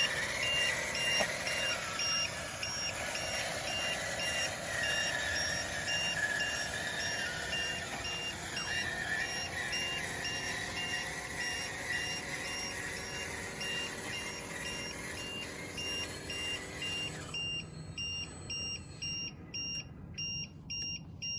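Reversing alarm beeping steadily about twice a second over a running vehicle or machine sound. The running sound cuts off about 17 seconds in, and the beeping carries on alone.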